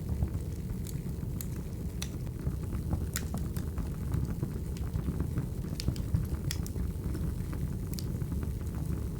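Wood fire burning: a steady low rumble of flames with irregular sharp crackles and pops, roughly one a second.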